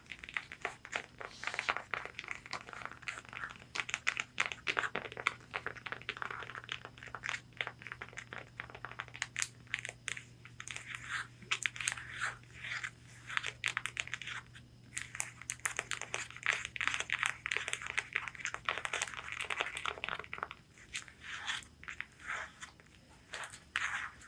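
Long fingernails rapidly tapping and scratching on a corset bodice's fabric: a dense run of quick clicks mixed with scratchy rasps.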